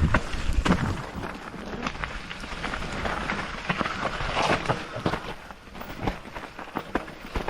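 Canyon Spectral AL6 enduro mountain bike riding down a wet trail: tyre noise on wet ground with frequent sharp knocks and rattles from the bike over rough terrain, heaviest in the first second.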